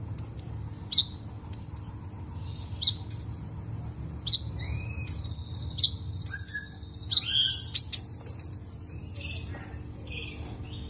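A cungkok kepala abu (grey-headed cungkok), a kept songbird, singing: a string of sharp, high chirps, then more varied warbled phrases from about four seconds in. A steady low hum runs underneath.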